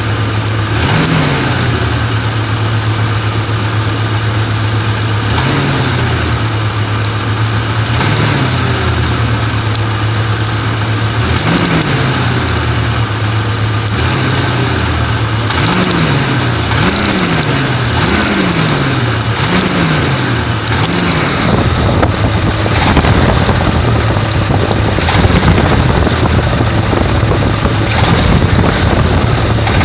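1994 Jeep Grand Cherokee 4.0-litre straight-six idling with short throttle blips, a quick series of five near the middle, while the owner checks it for an engine knock.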